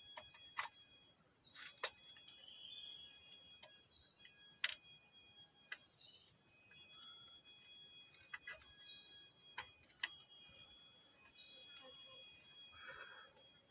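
Tropical forest ambience: a steady high-pitched insect drone with short high calls repeating about every one and a half to two seconds, and scattered sharp clicks.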